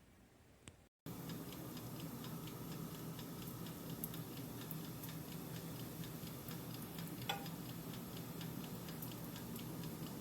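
Countertop toaster oven running, with a steady low hum and the rapid, even ticking of its mechanical dial timer. One louder click comes a little after seven seconds in.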